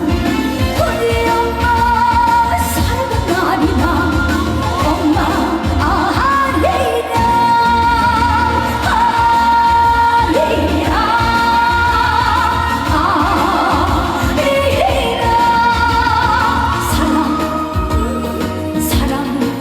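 Trot song sung live by a female singer over band accompaniment, with long held notes carrying vibrato and scooping up into each new phrase.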